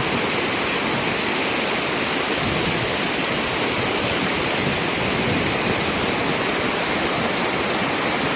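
Steady, unbroken rush of water with no distinct drops or strokes.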